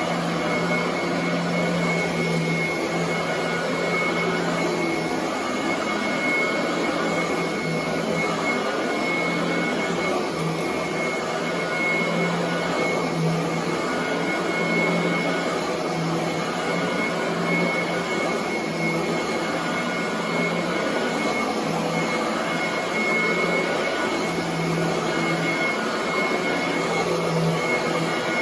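Royal commercial vacuum cleaner running on carpet, a steady motor noise with a high whine, its low hum swelling and dipping every second or two.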